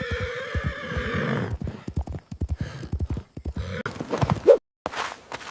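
Horse hooves galloping in a rapid clip-clop, with a horse whinnying through the first second and a half. A brief loud call rises near the end, and the sound cuts off suddenly.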